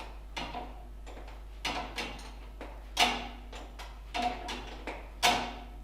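A string of irregular sharp metallic clicks and clunks from hands working on the tractor's parts, about eight or nine in all, the loudest about three seconds in and again near the end, each with a short ring.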